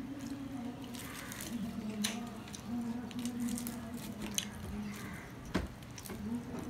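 Close-up chewing of luchi (puffed, deep-fried flatbread), with sharp clicks as fingers tear pieces of it on a steel plate, over a low hum that comes and goes.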